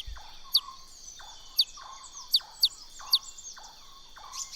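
A bird gives about six short, sharp, high-pitched calls at irregular intervals, each note falling quickly in pitch, over a steady high-pitched insect chorus.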